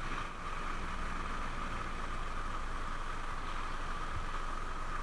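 Motorcycle riding steadily in the rain: a low engine hum under an even hiss of wind and rain, with a steady higher drone.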